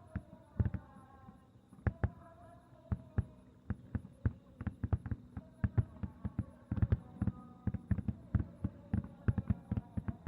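Aerial fireworks bursting: a string of sharp booms and cracks, spaced out at first and coming thick and fast from about halfway through, with crowd voices underneath.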